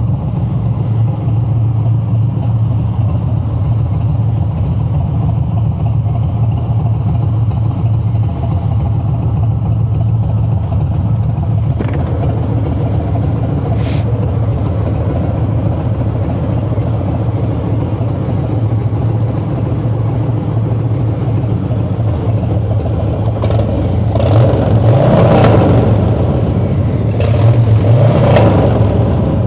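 Harley-Davidson Street Bob 114's Milwaukee-Eight 114 V-twin running through a new aftermarket exhaust while riding at a steady pace, then two louder surges of throttle near the end.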